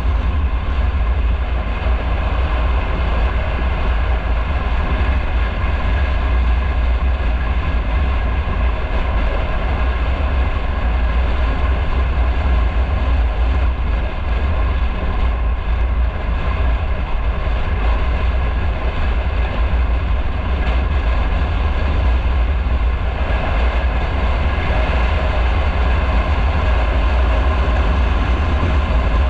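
Motorcycle running steadily on the move, with a loud, unbroken low rumble throughout.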